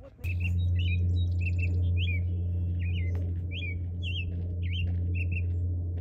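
Songbird singing short, clear chirped phrases, each note slurring up or down, repeated in groups. Beneath it is a loud, steady low hum that starts abruptly just after the beginning and stops abruptly near the end; the hum is the loudest sound.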